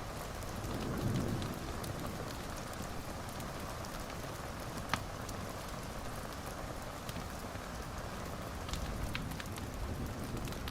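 Wood fire crackling steadily with scattered small sharp pops, one louder pop about five seconds in, and a brief low rumble about a second in.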